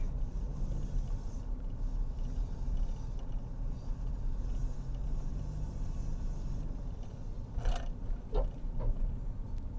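Car driving, heard from inside the cabin: a steady low rumble of engine and tyre noise. There is one short knock about three-quarters of the way through.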